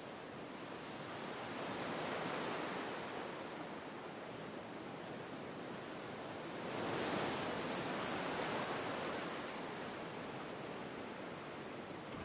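Sea waves washing in, a steady rush of surf that swells twice, about two seconds in and again about seven seconds in.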